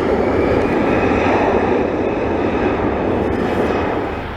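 Large jet aircraft's engines running at high power, a loud, steady rushing roar that eases off near the end.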